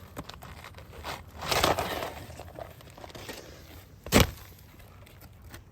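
Roof shingle being pried and peeled up, with a crackling tear about a second and a half in and one sharp knock about four seconds in.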